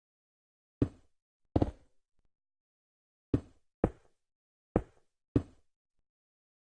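Six sharp knocks, coming in three pairs, each dying away quickly, with silence between them.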